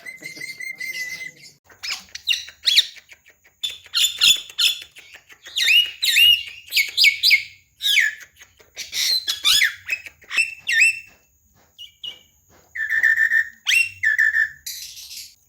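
Javan myna (jalak kebo) chattering in quick bursts of sharp chirps, whistles and squawks, with a short pause a little past the middle.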